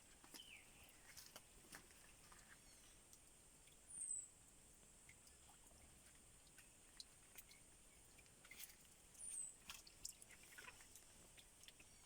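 Quiet forest ambience: a faint steady high-pitched hum, a short high chirp that comes back twice, about five seconds apart, and scattered light clicks and crackles.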